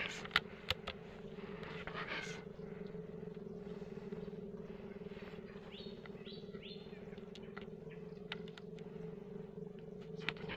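Quiet outdoor ambience with a steady low hum, a few sharp clicks, and a small bird chirping three quick times about six seconds in.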